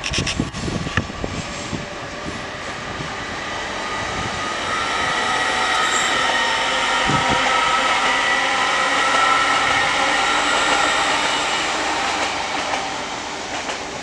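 A TransPennine Class 802 train running past: a few sharp clicks of wheels over rail joints at the start, then a steady rush of wheels on rail with a whine that builds, is loudest about two-thirds of the way through, and eases off near the end.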